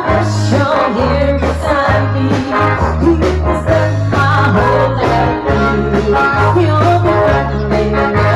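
Live band playing an upbeat song, with a bass line stepping from note to note under the melody.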